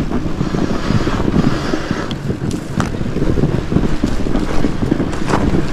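Wind buffeting the microphone over the rumble of fat-bike tyres rolling down a snowy trail, with a few short sharp clicks.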